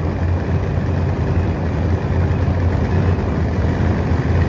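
Drag racing car engine idling near the starting line, a steady deep rumble with no revving.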